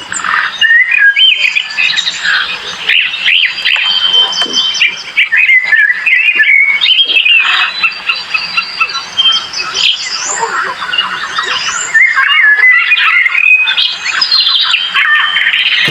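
A dense chorus of many birds calling at once, with overlapping quick chirps, trills and whistles.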